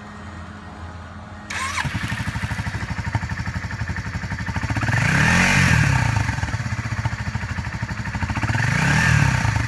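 Yamaha V-Star 650 V-twin motorcycle engine started about a second and a half in, catching almost at once, then idling with an even pulsing beat. It is revved up and back down twice, around five seconds in and again near the end.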